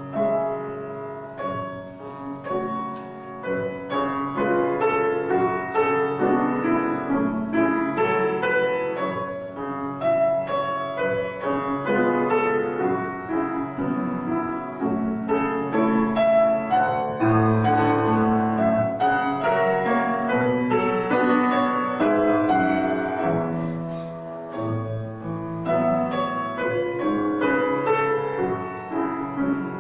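Solo piano playing a slow classical piece, note after note without a break, growing louder in the middle and dipping softer for a moment about three quarters of the way through.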